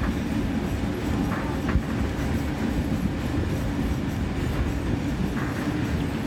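Vintage passenger train running along the track, a steady low rumble of carriage wheels on the rails.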